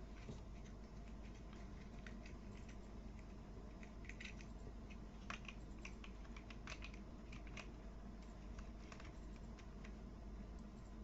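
Faint, irregular small plastic clicks and taps of toy building pieces being handled and fitted together, busiest around the middle, over a steady low room hum.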